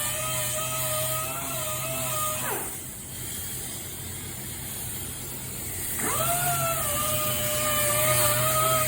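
Power sander running with a steady whine while sanding primed bodywork, its pitch wavering slightly under pressure. About two and a half seconds in it is switched off and spins down. About six seconds in it is started again, spinning up quickly and settling back into the same whine.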